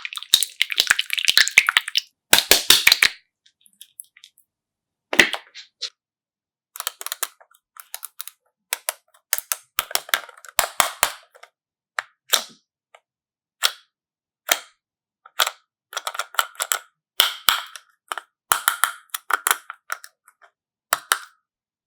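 A long run of short, sharp clicks and snaps at irregular intervals, some in quick clusters, with a dense crackle near the start.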